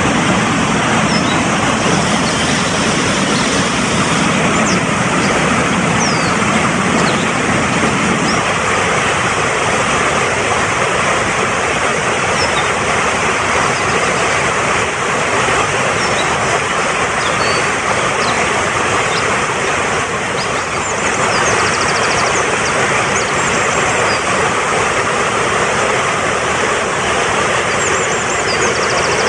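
Fast-flowing mountain stream rushing steadily, its deepest part dropping away about eight seconds in. Small birds chirp and trill faintly above the water.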